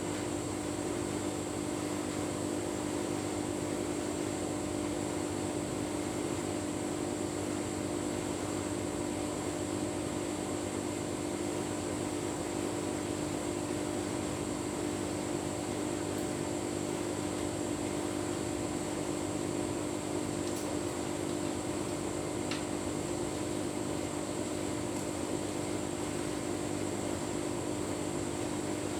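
Tumble dryer running steadily with a full load of bedding on a cottons programme: a constant motor and fan hum with a steady tone, unchanging throughout.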